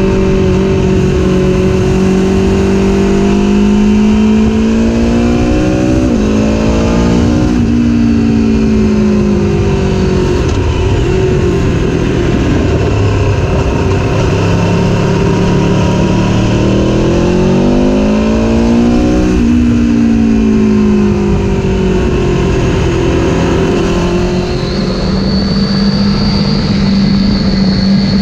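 Aprilia Tuono V4 motorcycle's V4 engine heard from on board at track speed, with wind noise. The engine rises in pitch twice as the bike accelerates, breaking at the top of each rise. In between, the pitch drops and settles as the rider rolls off. In the last few seconds the sound changes to a different engine with a thin, high whine on top.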